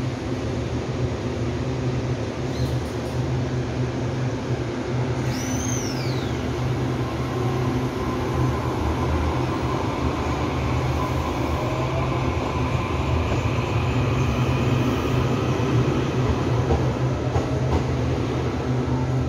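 Electric commuter train pulling away from the platform and picking up speed, a steady low hum with a motor whine rising in pitch, growing louder as the cars pass. A few sharp wheel clacks near the end.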